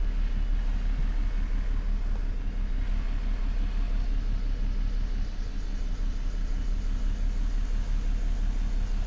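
BMW N53B30 3.0-litre straight-six idling steadily after a cold start, a continuous low hum with a fast, even pulse.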